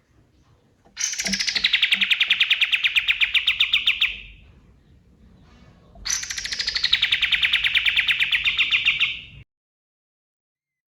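Kapas tembak, a songbird, singing two long phrases of rapid-fire notes, about ten a second. Each phrase opens high and slides down in pitch. The second phrase cuts off abruptly.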